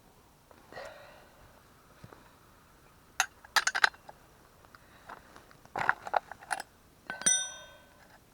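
Handling clatter: scattered clicks, knocks and metallic clinks, with a brief ringing clank about seven seconds in; no engine is running.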